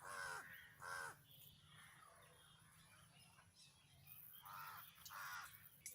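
Crow cawing: two quick caws at the start, then two more about four seconds later.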